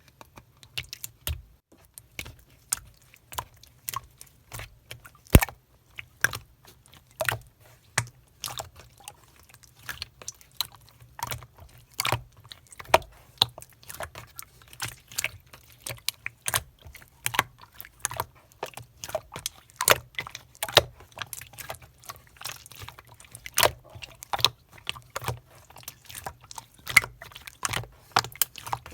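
Slime being squeezed and pressed by hand, giving a run of sharp, sticky clicks and pops, irregular, about two or three a second.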